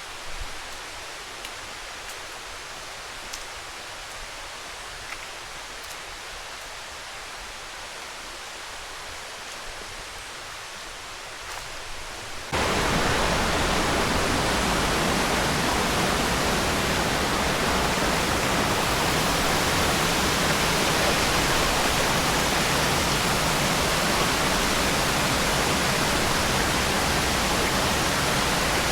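Steady rushing water, a moderate hiss with a few faint ticks at first, then stepping up suddenly about twelve seconds in to a much louder, even rush.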